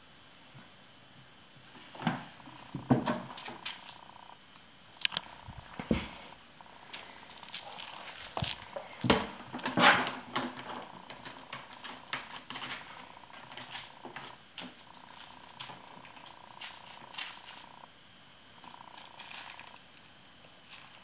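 Bengal kitten purring, with many scattered clicks and knocks, loudest a few seconds in and around the middle.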